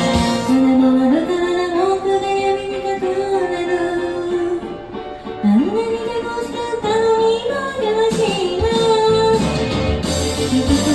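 A woman sings a Japanese pop song over guitar-led backing, holding long notes with a scoop up to a higher note about halfway through.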